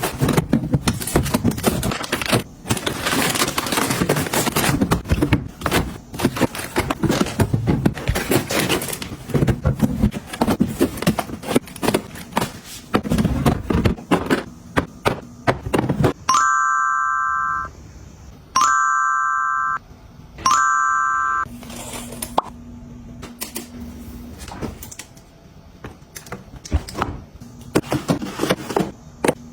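Close household handling sounds, dense clicks, taps and rustles of items being moved and set down, for the first half. Then an electronic appliance gives three beeps, the last one shorter, followed by a low steady hum for a couple of seconds before the clicking resumes.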